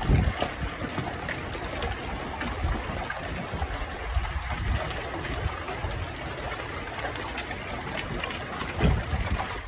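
Steady rushing wind, with gusts buffeting the microphone about a second in and again near the end.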